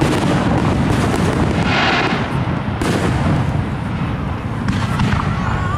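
Fireworks display: aerial shells bursting in quick succession, a continuous run of booms and bangs.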